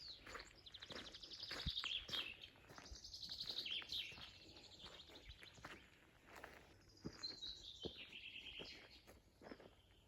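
Wild songbirds singing: several fast trilled phrases, some falling in pitch, faint in the background.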